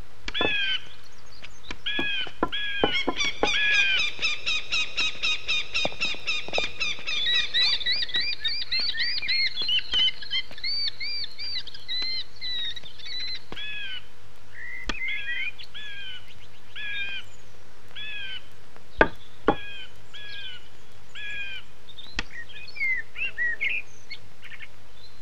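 Birds chirping in repeated short calls, with a fast run of chirps from about two to eight seconds in, then slower single chirps. Two sharp knocks stand out about nineteen seconds in.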